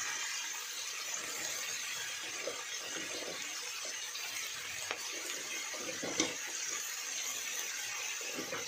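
Napa cabbage frying in hot oil in a steel wok: a steady sizzle, with a couple of brief knocks about five and six seconds in.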